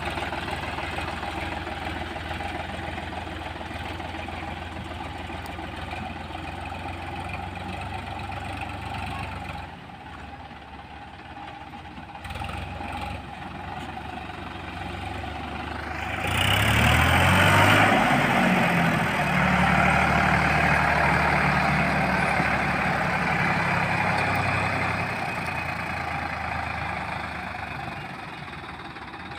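Diesel tractor engine running steadily, revving up about halfway through and holding the higher speed for several seconds before easing back.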